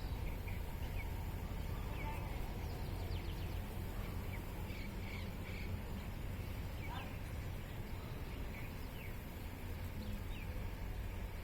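Small birds chirping: short, scattered calls, some sliding down in pitch, over a steady low rumble.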